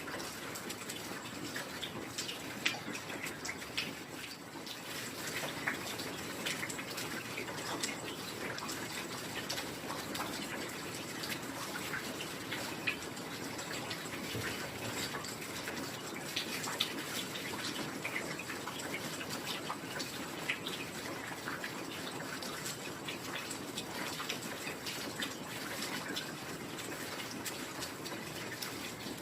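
Steady heavy rain with a dense patter of individual drops, some striking close by as sharp ticks.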